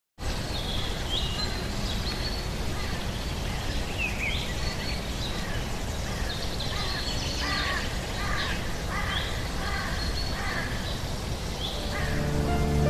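Outdoor ambience: birds calling repeatedly in short rising and falling chirps over a steady low background rumble. Music comes in near the end.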